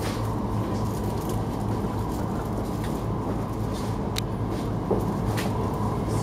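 Inside an E5 series Shinkansen running at speed: a steady low rumble and hum through the cabin, with a few sharp ticks.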